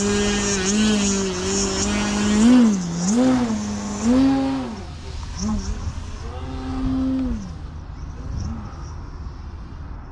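Electric motor and 18x10 propeller of a large RC aerobatic airplane in flight, a steady whine that from a few seconds in swoops up and down in pitch with repeated throttle bursts. It grows fainter in the second half.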